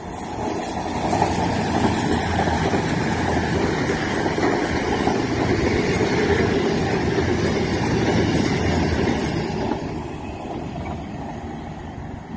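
CrossCountry Voyager diesel multiple unit running past along the platform. The noise swells within the first second or two, stays loud, and fades after about ten seconds.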